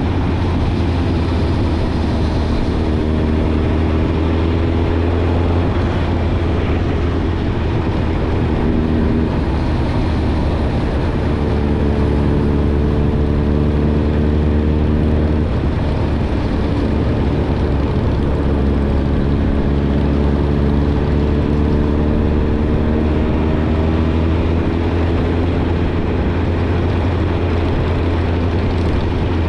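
Suzuki GSX-R1000's inline-four engine running through a Yoshimura Alpha exhaust while being ridden at gentle throttle, its note rising a little in several stretches as it pulls, over steady wind and road noise.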